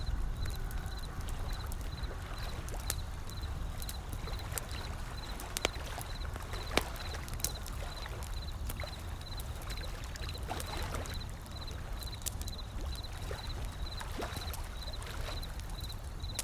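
Wood fire crackling with scattered sharp pops, over a steady low rumble and wash of ocean waves. A faint high chirp pulses about two or three times a second.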